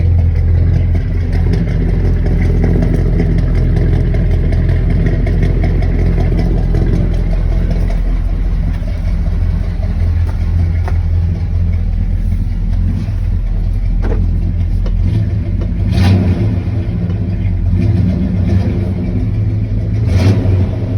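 1985 Chevy K20 pickup's 454 big-block V8 running through its exhaust, a steady low engine note, with a few short, sharp louder sounds in the last several seconds.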